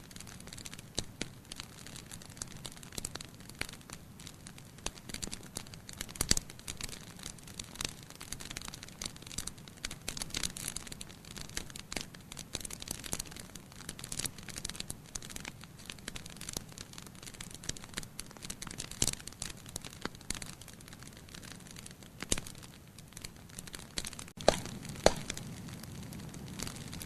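Wood fire crackling in a fireplace: a low steady hiss of burning broken by frequent irregular pops and snaps, with a few louder pops near the end.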